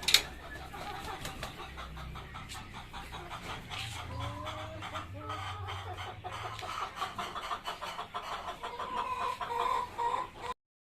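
Ayam kampung (Indonesian village chickens) clucking, with a dense run of small clicks and taps throughout and one sharp click right at the start. The clucking grows busier toward the end, then stops abruptly.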